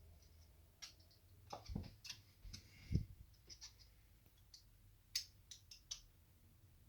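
Small metal clicks and taps of a hex wrench being fitted to and turned in the cooling-head screws of a nitro RC engine, with a duller knock about three seconds in.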